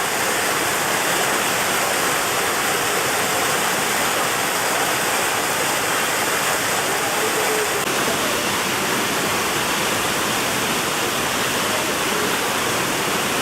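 Waterfall cascades rushing in a steady, unbroken roar of falling water.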